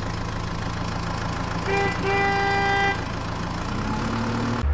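Vehicle engine running steadily while a horn honks twice: a short toot, then a longer honk of just under a second. The engine note rises slightly near the end.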